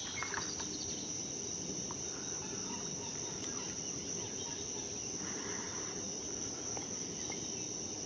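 Steady, high-pitched insect chorus, a continuous trill, over low outdoor background noise, with a few faint, brief bird calls.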